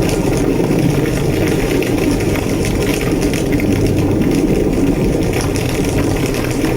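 Large structure fire burning with a steady, powerful low roar and frequent sharp crackles.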